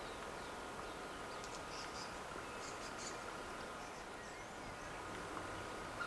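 Countryside ambience: a steady high insect drone, with a run of short, high bird chirps about one and a half to three seconds in.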